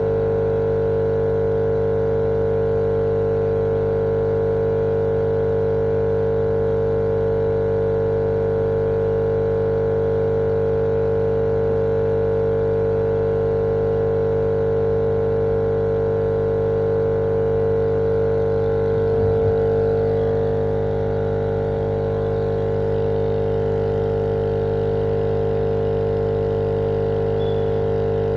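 Steady machine drone played as sleep noise for babies: an unchanging hum with a strong tone and evenly stacked overtones over a noisy floor. It swells slightly about two-thirds of the way through, then settles back.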